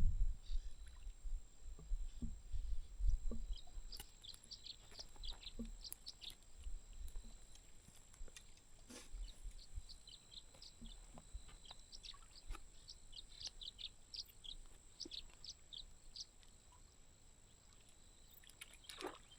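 Birds chirping, many short high chirps in quick succession through the middle of the stretch. A low rumble, like wind on the microphone or handling, is heard during the first few seconds.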